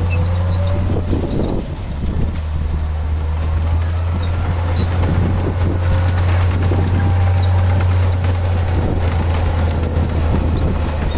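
Heavy diesel engine of a bulldozer running with a steady low drone, with small high-pitched squeaks scattered over it.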